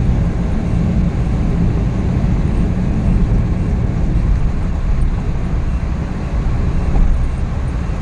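Steady low drone of the freshly rebuilt Suzuki K6A three-cylinder engine and road noise inside the cab of a DA64V van driving along.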